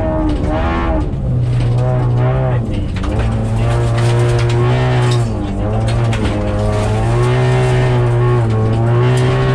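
2015 Honda Civic's four-cylinder engine heard from inside the cabin under racing load on dirt, revving up and dropping off several times as the driver works the throttle, with road and tyre noise underneath.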